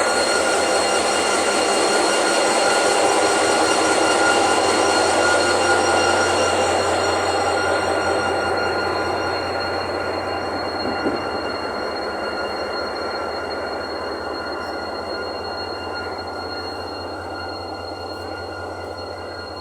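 The diesel engine of an EMD GT22 locomotive runs while it stands in the station, a dense steady mechanical note with many pitches. It slowly grows quieter and duller over the second half as the engine settles.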